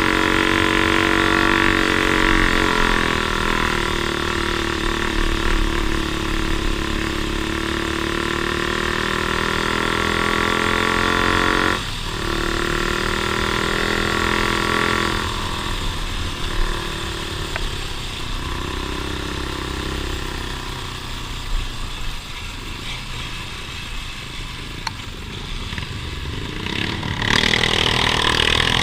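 Off-road vehicle engine running on a trail, its pitch rising and falling with the throttle, with a brief break in the note about twelve seconds in. It eases off through the second half and picks up again near the end.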